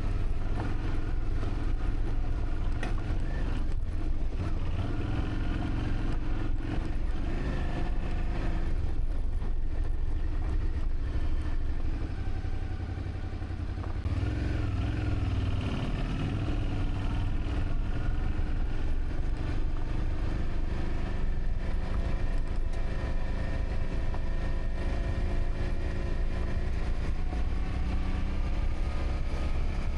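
A road vehicle's engine running on the move, its pitch drifting up and down with speed, along with road and wind noise. It dips briefly about halfway through.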